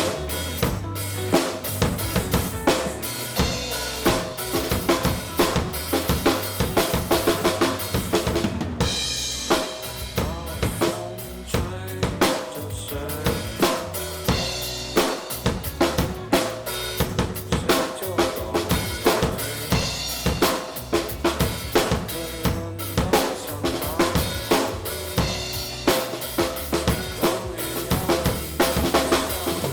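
Rock drum kit played in a steady groove, with kick drum, snare and cymbal strokes, over a backing band track with bass and guitar.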